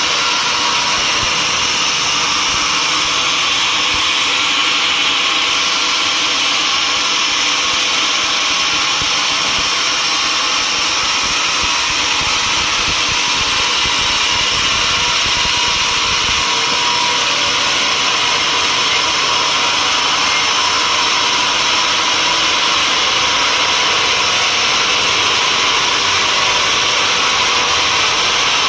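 Sawmill saw running steadily: a constant, even hiss with no pauses or changes in level.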